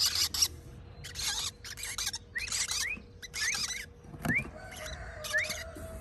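Parrot chicks begging for food: repeated harsh, raspy, hissing calls, one every half second to a second, mixed with short rising chirps.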